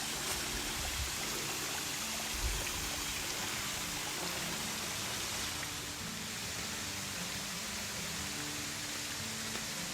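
Flowing water, a steady even rush with no distinct events.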